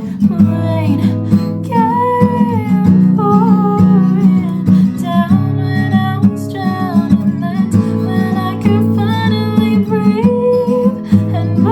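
Acoustic guitar strummed, with a voice singing long, drawn-out notes over it.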